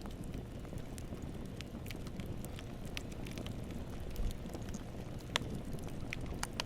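Campfire burning: a steady low rush of flames under scattered crackles and pops of burning wood, the sharpest pop about five seconds in.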